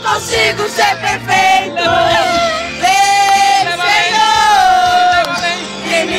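Gospel song with a voice singing long held notes over the instrumental backing, two long notes about three and four seconds in.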